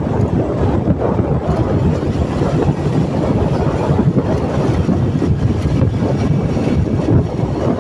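Steady wind rumble on the microphone of a moving vehicle, with road and engine noise underneath.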